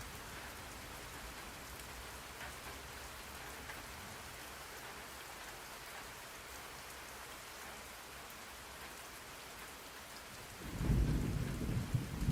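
Steady rain falling. Near the end a loud, low rumble of thunder starts and rolls on.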